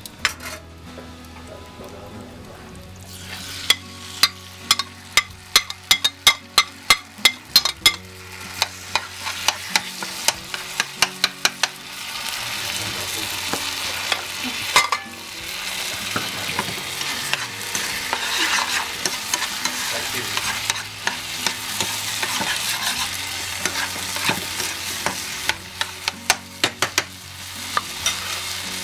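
Morcilla filling of blood, rice and onion frying in a pan with no oil. First comes a run of sharp clicks of a utensil knocking and scraping against the pan, about two a second. Then, from about twelve seconds in, a steady sizzle builds and grows louder as the mixture is stirred and fried.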